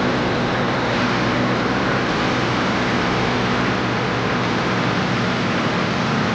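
A motor running steadily: an even, constant noise with a faint low hum.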